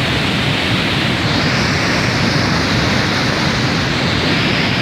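Loud, steady rushing of floodwater.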